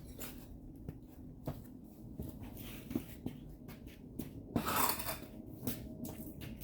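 Workshop handling noises: scattered light clicks and taps, with one louder scraping rustle about four and a half seconds in.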